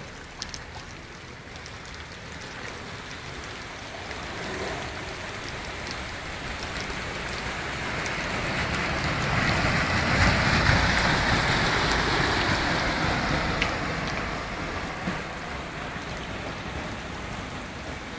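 Heavy rain falling on flooded streets, a steady hiss that swells to its loudest about ten seconds in and then eases off.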